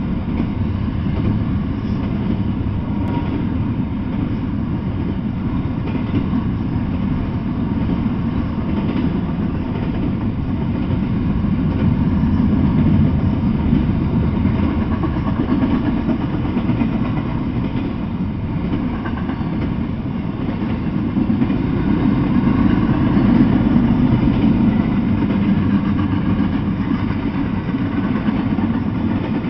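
Freight train of double-stack intermodal container cars passing, giving a steady low rumble of wheels on rail that swells a little twice.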